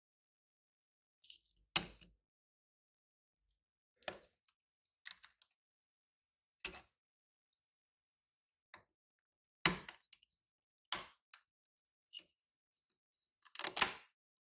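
Scattered sharp clicks and knocks, about eight in all, spaced irregularly with silence between; the loudest come near ten seconds in and near the end.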